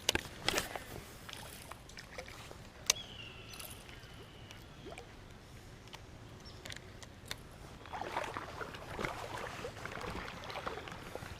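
Shallow creek water splashing and sloshing, with a few sharp clicks near the start and about three seconds in, and a busier stretch of splashing near the end.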